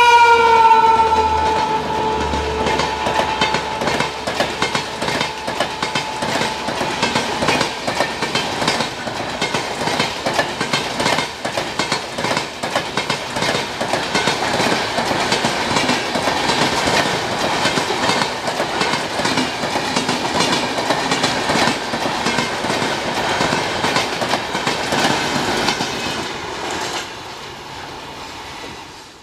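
Indian Railways express train sounding its horn as it passes, the horn's pitch dropping slightly before it stops about two seconds in. Then the coaches run by with a steady clickety-clack of wheels over rail joints, fading out near the end.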